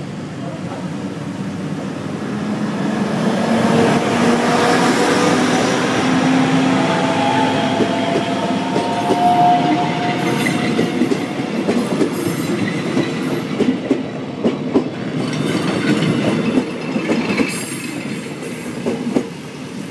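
Passenger train approaching and passing close by, the cars rumbling past with a run of wheel clicks over the rail joints in the second half. High-pitched wheel squeal comes and goes.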